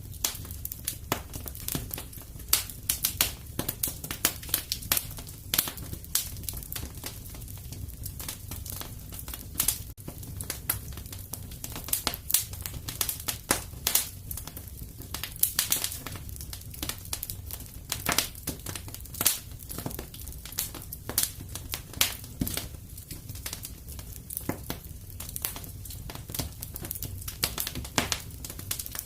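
Wood fire crackling in a fireplace: irregular sharp crackles and snaps, several a second, over a steady low rumble of the flames.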